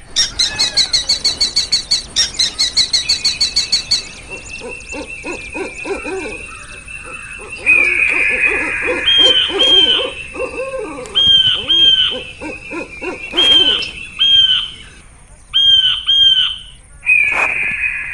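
Birds calling. A fast rattling series of high notes runs for about four seconds, then calls come in repeated pairs of short downward-sliding notes. A steady high buzz sits underneath.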